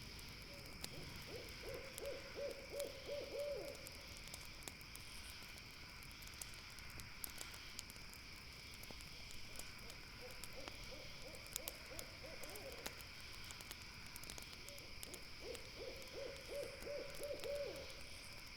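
An owl calls three times, each call a rapid run of short low hoots lasting two to three seconds. Steady high insect trilling runs underneath, with scattered sharp crackles from a campfire.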